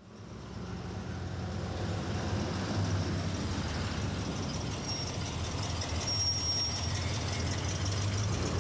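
A heavy truck's engine running as the vehicle moves, growing louder over the first couple of seconds, with a thin high squeal partway through.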